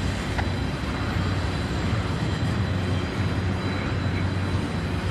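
Freight train rolling past, a steady rumble with a constant low drone.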